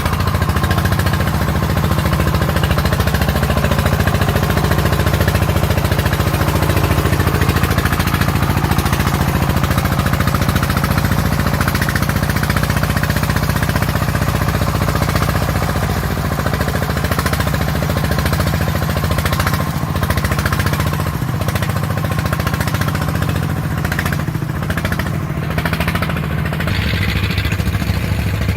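Diesel engine of a farm vehicle (công nông truck or tractor) chugging steadily and loudly throughout.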